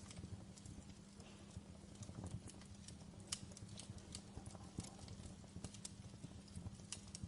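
Burning logs crackling in a fireplace: irregular small snaps and pops, one sharper pop about three seconds in, over a low steady rumble.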